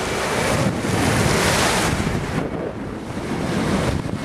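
Wind buffeting the microphone over water rushing along a sailboat's hull while under way; the rush swells about a second in, then eases.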